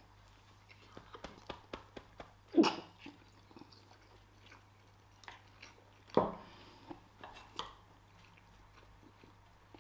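Chewing, with small scattered clicks and two louder short sounds about two and a half and six seconds in.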